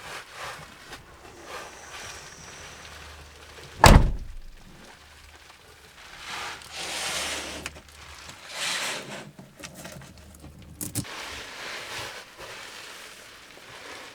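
One heavy thunk about four seconds in, among rustling and handling noises and a few light clicks near the end.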